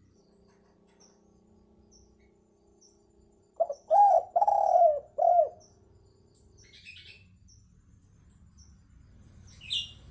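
Spotted dove (tekukur) cooing: one phrase of four low coos about four seconds in, the third drawn out longest. Faint high chirps of small birds repeat in the background, with a sharper chirp near the end.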